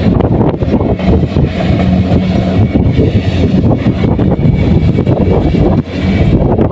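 Kubota rice combine harvester running steadily, its engine giving a loud, even hum with a brief dip a little before the end.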